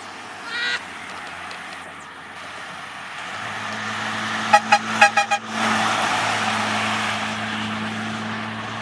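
A vehicle horn gives about five quick toots in the middle, over a steady engine hum that sets in about three seconds in. There is a brief higher beep near the start.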